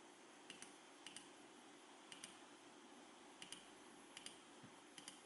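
Faint button clicks, each a quick double click of press and release, about six times at uneven intervals over a low steady hiss.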